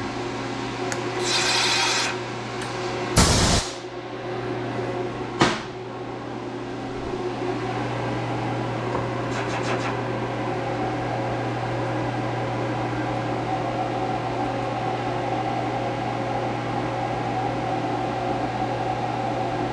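Steady low hum of a running CNC machine with a few faint steady tones. About a second in there is a short hiss, then a loud knock about three seconds in and a sharp click near five and a half seconds, which are the sounds of parts being handled.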